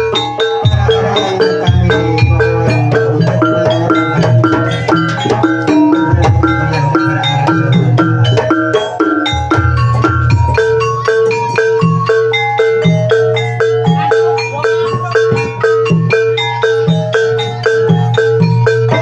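Javanese gamelan music for an ebeg (jaranan) horse dance: fast, dense runs of mallet-struck notes over repeated low drum strokes and a held tone.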